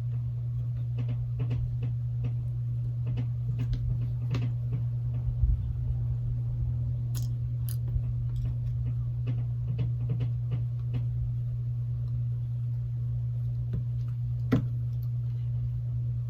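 Small, irregular clicks and taps of repair tools and snap-on flex connectors being unplugged inside a Galaxy Note 8, with one sharper click near the end, over a steady low hum.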